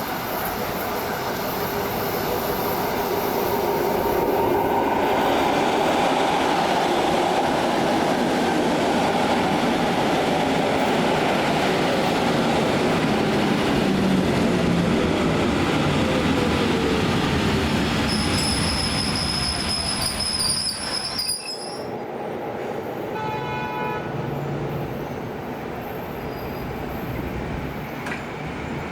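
A train running through the station, loud wheel and running noise with a whine that falls in pitch as it slows. A high-pitched wheel squeal comes about two-thirds of the way in. Then the sound cuts abruptly to a quieter station scene with a brief pitched tone.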